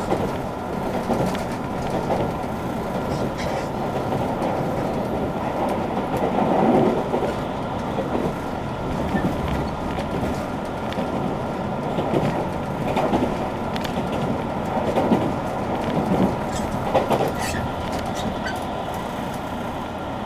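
JR Kyushu 883 series electric train, which has Toshiba GTO inverter drives, running at speed, heard inside the carriage: a steady rumble of wheels on rail with a few held high tones and scattered clicks, swelling a few times.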